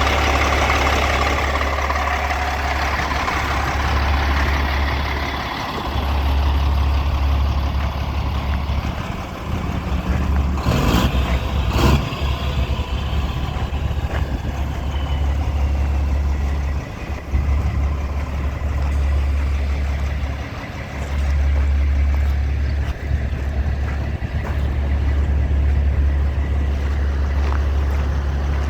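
Diesel engine of a 1993 Kenworth T-800 semi truck idling steadily. Two short bursts of noise come about eleven and twelve seconds in.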